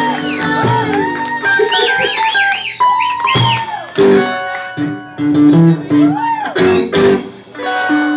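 Live acoustic guitar playing, with people's voices calling out over it.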